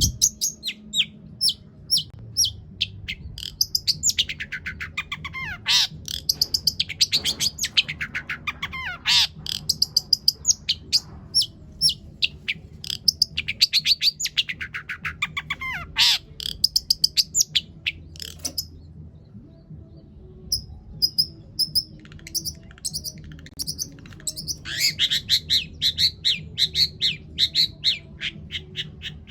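Long-tailed shrike (cendet) singing a long, busy song: rapid runs of high chips broken by repeated sweeping notes that fall steeply in pitch, with mimicked calls of other birds worked in. The song pauses briefly a little past the middle, over a steady low hum.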